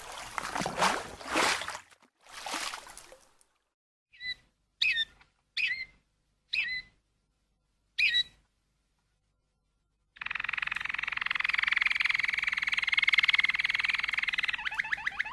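Animal calls: five short chirps spaced a little under a second apart, then a long, fast, evenly pulsed trill that starts about ten seconds in. The first seconds hold two brief noisy rushing sounds.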